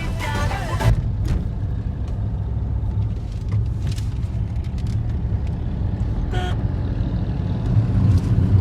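Diesel tractor engine running with a low steady rumble, getting louder near the end. Background music stops about a second in.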